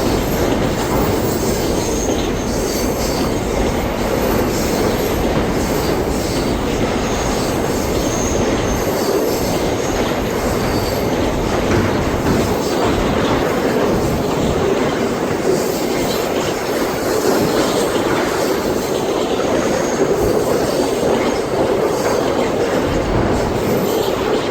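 Freight train wagons rolling past on the rails, a steady clatter of wheels over the track with high wheel squeal coming and going.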